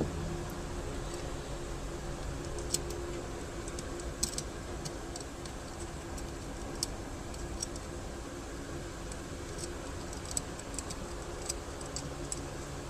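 Scattered small clicks and taps of metal parts being handled and worked loose during disassembly of an airsoft gas blowback pistol, over a steady low hum.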